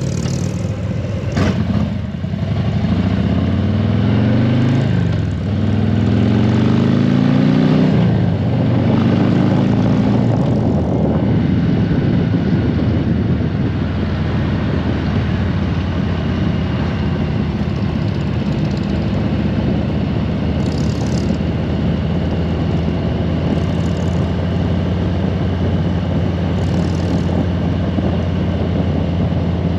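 Harley-Davidson Road Glide V-twin pulling away from a stop, its pitch rising through three gears with short dips at the shifts, then running steadily at cruising speed with wind noise.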